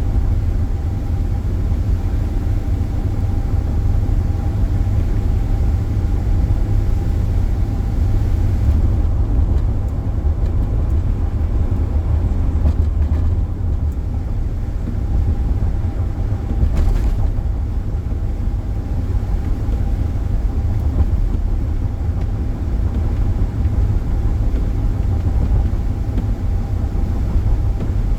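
Steady road and engine noise heard from inside a car's cabin while driving, a low rumble with a faint steady hum above it.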